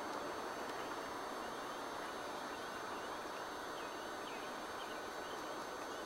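Geese and goslings calling faintly, with scattered short high peeps over a steady background hiss.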